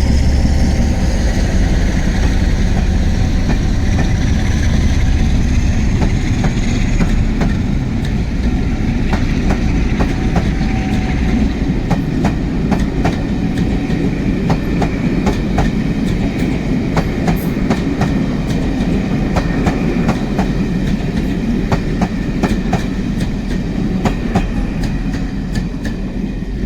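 Class 47 diesel locomotive and its rake of empty coaches running past slowly. A heavy low engine rumble is strongest at first and eases, then the wheels click over rail joints and pointwork, the clicks coming thick and fast in the second half.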